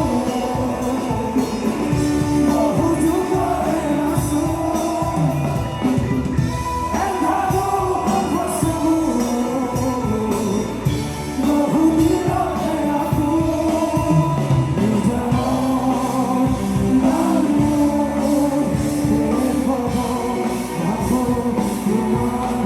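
Live rock band music with a steady beat and a sustained, wavering melody line, probably guitar or vocal, over drums.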